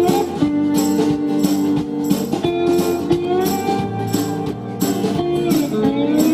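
Band playing an instrumental passage of a pop-rock song, sustained pitched notes over a steady beat, with no singing.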